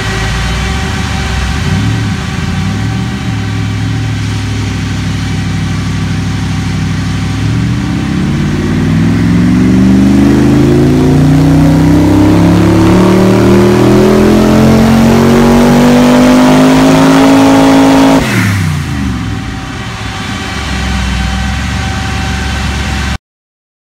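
Audi RS6 4.2-litre V8 on a dyno: it idles with a couple of light blips, then pulls under load through a long, steady rise in revs lasting about ten seconds, the loudest part. The throttle shuts abruptly about eighteen seconds in, and the revs fall back to idle.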